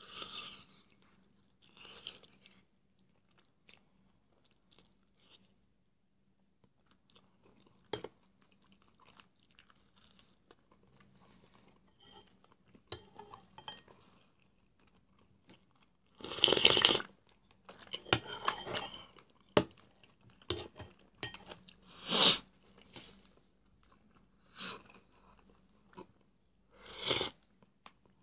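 Close-up sounds of a person biting and chewing duck meat off the leg: faint, scattered chewing at first, then several much louder bursts of eating noise in the second half.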